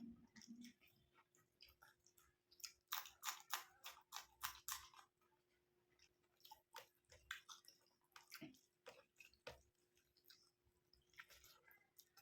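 Close-miked chewing of curry and rice: irregular wet smacks and clicks of the mouth, coming in clusters with short pauses between, over a faint steady hum.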